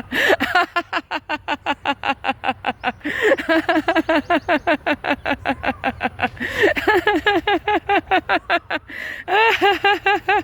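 A person laughing out loud in quick, steady 'ha-ha-ha' pulses, about five a second, in long runs broken by short breaths roughly every three seconds: laughter yoga laughter, started deliberately and kept going from the belly.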